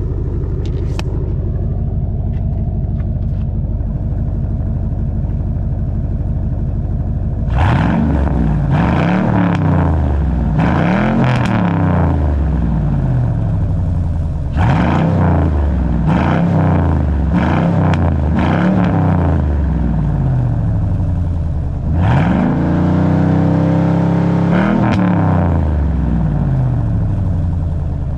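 Chevy Suburban's 8.1-litre big-block V8 through a muffler-delete exhaust, catalytic converters and straight pipes only. It idles steadily, then gets a quick series of about a dozen throttle blips, each rising and falling in pitch, then one longer rev held for about three seconds near the end before dropping back to idle.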